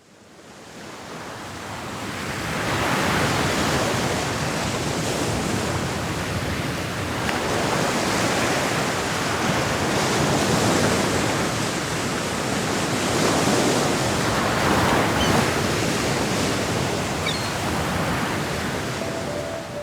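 A rushing noise that fades in from silence, then swells and eases every three to four seconds.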